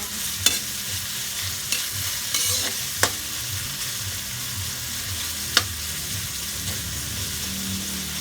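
Tomatoes and ginger sautéing in hot oil in a wok, with a steady sizzle. A spatula stirs the pan and knocks sharply against the wok three times.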